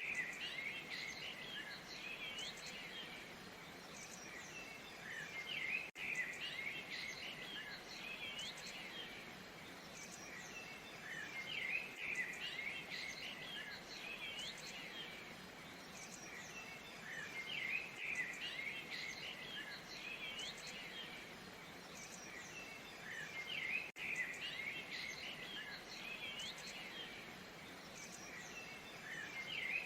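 Steady rush of a waterfall under a dense chorus of chirping, whistling songbirds. The birdsong swells about every six seconds.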